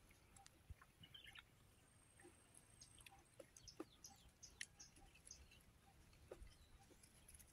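Near silence, with faint scattered clicks of people chewing and scooping soft young coconut meat from the shell, and a few faint bird chirps.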